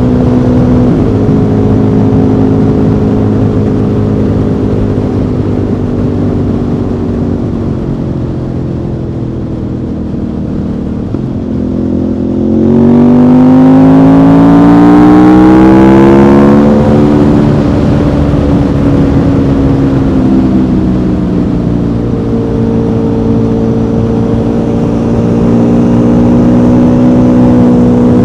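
Aprilia Tuono V4 motorcycle's V4 engine heard on board while riding: running steadily with the revs slowly sinking, then about twelve seconds in a hard acceleration, the revs climbing and the engine louder for a few seconds. The revs then drop and it settles back into a steady cruise, rising slightly near the end.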